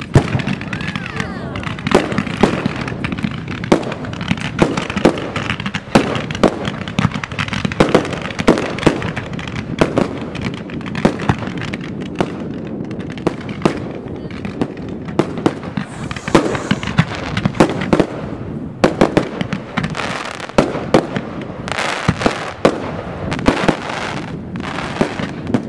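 Professional firework display: aerial shells and cakes firing and bursting in quick succession, a dense run of sharp bangs and thumps several times a second, with a brief hissing rush about two-thirds of the way through.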